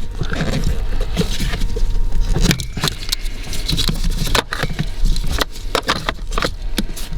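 Irregular clicks, taps and rattles of hands working a plastic electrical connector loose from a blower motor resistor, over a steady low hum.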